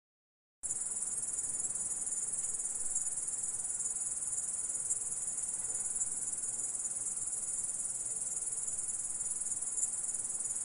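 Grasshopper stridulating: a continuous, high-pitched, dense buzz that starts abruptly about half a second in and holds steady.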